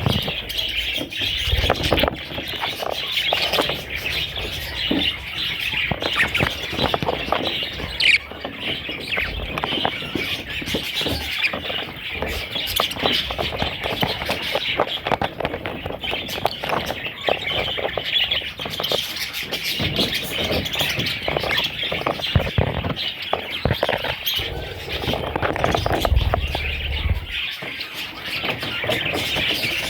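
Budgerigars chirping and chattering continuously, many birds calling at once, with frequent short squawks.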